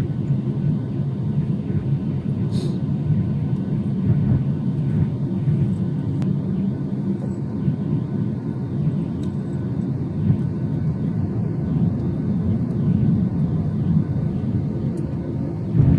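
Jet airliner engine noise: a steady low rumble that holds at an even level throughout.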